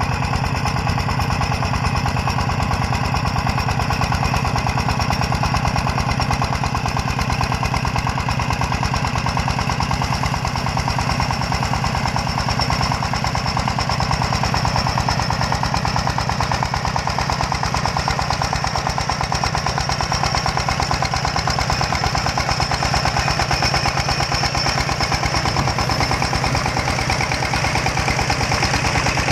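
Công nông farm truck's single-cylinder diesel engine running steadily with a fast, even chugging beat.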